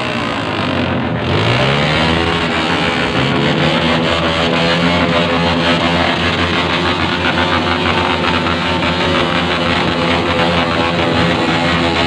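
Several motorcycles revving hard together through loud exhausts. About a second in, one engine's revs climb steeply, and then the engines are held at high revs in a harsh, continuous din.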